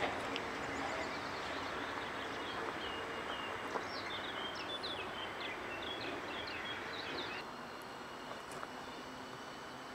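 Steady outdoor background noise with a songbird singing a quick run of short chirps for about four seconds. The background drops suddenly about seven and a half seconds in.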